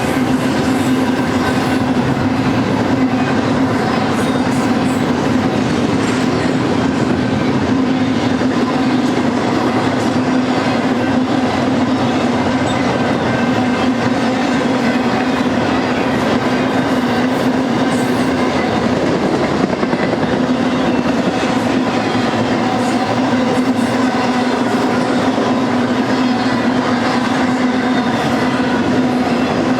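BNSF freight train cars rolling past: a steady, loud run of steel wheels on rail with a constant low hum.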